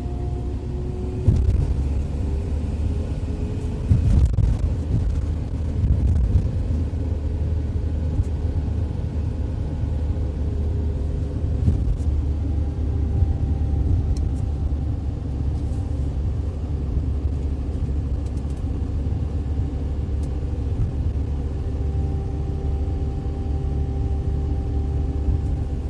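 A Ford Transit 2.4-litre four-cylinder turbodiesel van driving along, a steady engine and road rumble with a faint drone that drifts slowly in pitch. A few sharp thumps come in the first several seconds.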